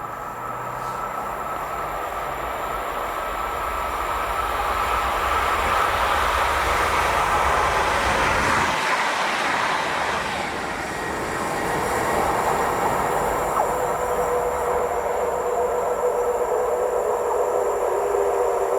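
Train running past on the main line: a steady rushing rumble of wheels on rails that grows louder over the first few seconds, then holds.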